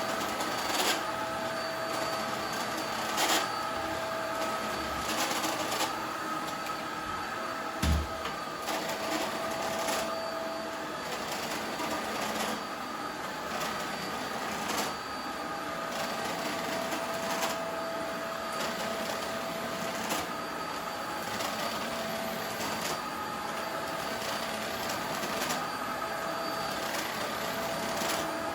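Corded cyclone vacuum cleaner running while vacuuming: a steady motor whine whose tone drops in and out, with a few knocks from the nozzle and a heavier thump about eight seconds in. The machine is the one the owner says was making a strange noise.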